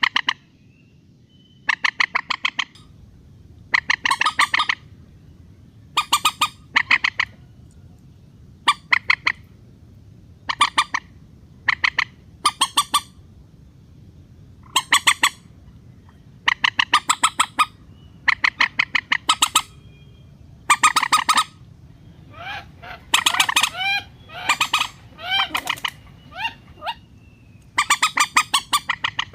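Mandar (rail) calls from a lure recording: short bursts of rapid clucking pulses, each under a second, repeating every second or two. About two-thirds of the way through the calls turn into a run of squealing, bending notes before the pulsed bursts return, over a low steady hum.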